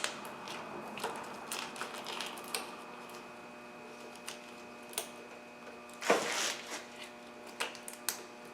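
Fuel injector electrical connectors being handled and pushed onto the injectors by hand: scattered small plastic clicks, with a louder rustling scrape about six seconds in.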